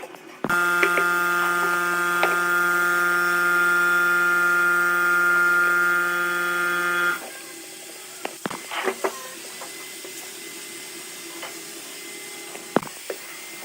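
Steady electric machine hum at one unchanging pitch, starting abruptly about half a second in and cutting off about seven seconds in, followed by scattered light clicks and taps.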